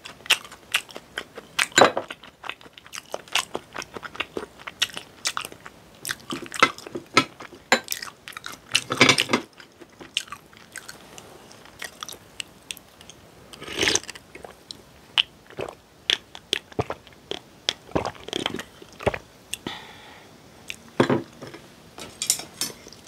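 Close-miked eating sounds: chewing and biting with many short crunchy clicks and wet mouth noises, from a mouthful of macaroni corn salad.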